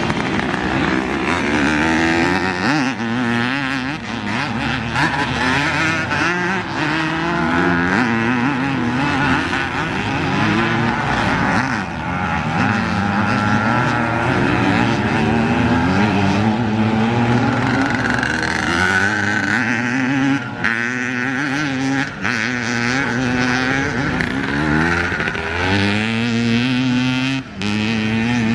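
Motocross dirt bike engines running hard, the pitch climbing and dropping over and over as the throttle is worked, with a few brief drops in level near the end.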